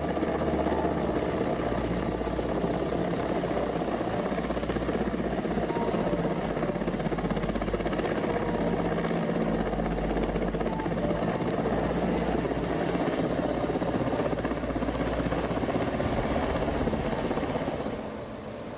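Helicopter rotor and engine running steadily, a loud continuous rumble that drops away near the end.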